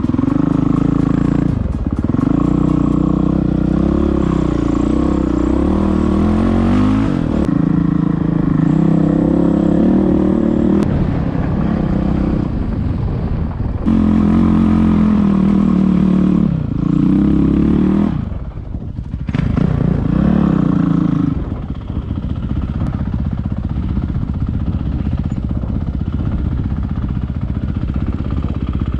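Enduro motorcycle engine running under load, its revs rising and falling again and again with throttle and gear changes. The engine drops off sharply near two-thirds of the way through, then picks up and runs steadier at lower revs.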